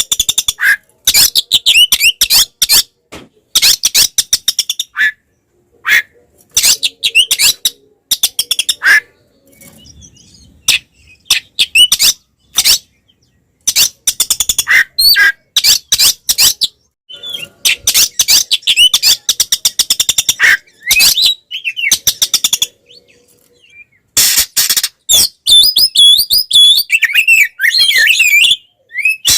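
Oriental magpie-robin (kacer) in loud, aggressive 'tarung' fighting calls: bursts of rapid harsh chattering notes broken by short pauses. Near the end it switches to a run of quick whistled phrases. This is the combative calling that kacer keepers play to provoke their own bird.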